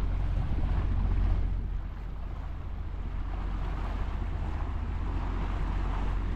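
Sailboat under way under engine: a steady low rumble from the boat's motor, with wind buffeting the microphone and water rushing along the hull.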